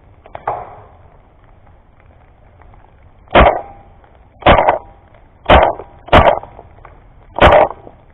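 Paintball marker firing five single shots, each a loud, short pop, at uneven gaps of about one second. The shots start a few seconds in.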